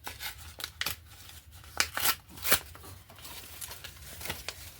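Magazine paper rustling and crackling as it is handled, a string of short dry crackles with the loudest few about two seconds in.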